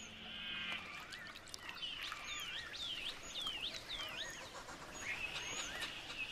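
Birds calling by a creek pool: a run of quick, sharp chirps that dip and rise in pitch in the middle, with a buzzy trill at the start and again near the end.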